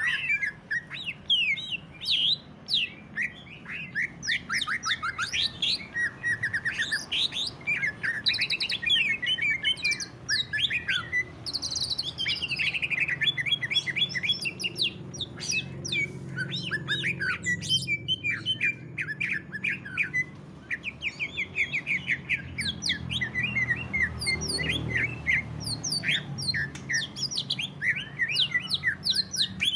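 Green leafbird (cucak ijo) singing hard without pause: fast runs of short, sharp chirps and rattling trills, one phrase after another. A faint low hum runs underneath.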